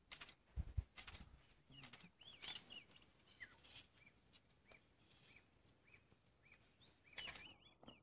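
Quiet bush ambience: a bird repeating short, high chirps about twice a second. A few soft rustles and low thumps come in the first second or so and again near the end.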